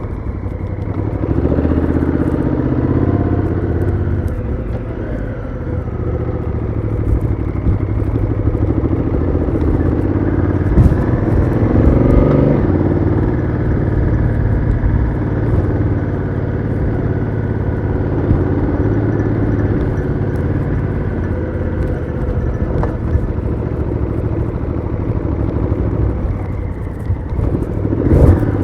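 Honda Africa Twin CRF1000L's parallel-twin engine heard onboard through its stock exhaust while riding, the revs rising and falling several times with the throttle, with a sharper climb and drop near the end.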